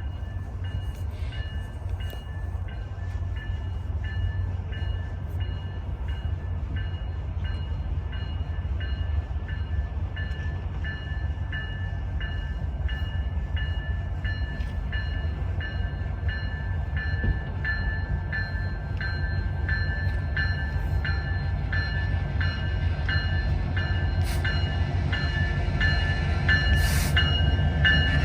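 Train rumbling steadily, growing louder as it comes closer, with a bell ringing about twice a second throughout.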